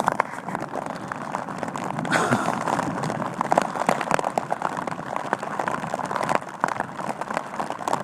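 Heavy rain drumming on a military bivy cover close to the microphone, a dense patter of many sharp drop hits.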